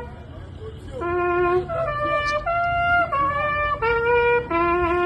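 A solo trumpet playing a slow tune of long held notes, one note at a time, coming in after a short break about a second in.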